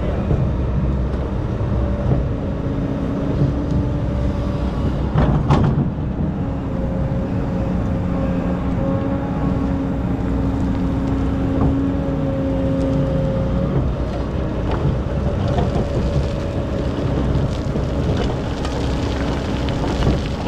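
Excavator's diesel engine running steadily while digging sand, with a steady whine that comes in about two seconds in and drops away around fourteen seconds. One sharp knock about five and a half seconds in.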